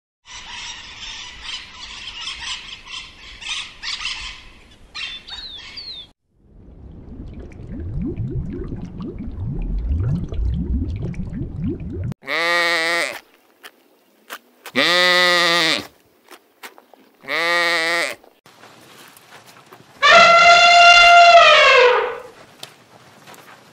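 A cat meowing: three short meows, then a longer, louder meow that drops in pitch at the end. Before them comes a high, busy chattering sound and then a low rumbling.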